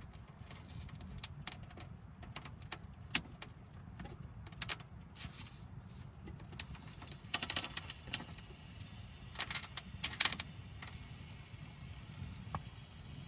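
Wood burning in a tent wood stove, crackling and popping irregularly, with dense runs of crackles about halfway through and again near the end, over a steady low rumble.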